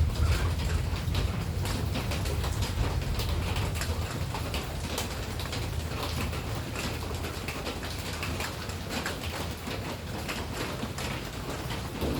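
Rain, with drops ticking irregularly on a hard surface over a low, steady rumble.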